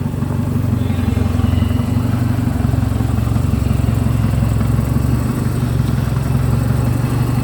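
Ford Escort RS Turbo's turbocharged four-cylinder engine idling steadily.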